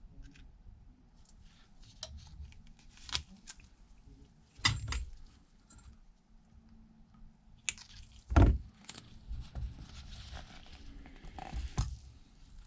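Scattered small clicks, taps and rustles of hands working adhesive tape and small tools on a bench, with a louder knock about eight seconds in.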